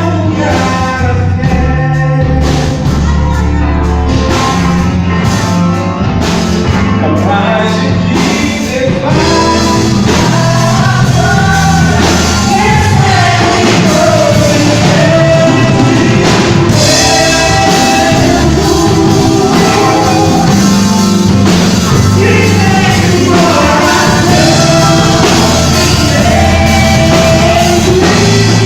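A small band rehearsing a rock-style song live, with a singer over bass and drums; the playing gets fuller about nine seconds in.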